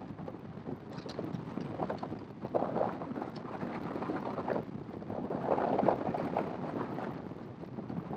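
Wind rushing over a motorcycle rider's microphone while riding, with the bike's running noise underneath; the rush swells and dips unevenly, loudest a little past the middle.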